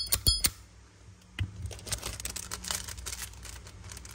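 Brass Zippo lighter's lid being flicked open and snapped shut, quick sharp metallic clicks with a ringing tone in the first half second, the sound a sound, firm hinge gives. Then a single click and soft handling of the lighter.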